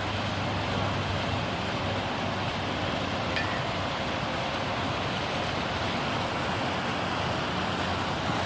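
Steady, even rushing background noise outdoors with a low hum underneath, and one faint click about three and a half seconds in.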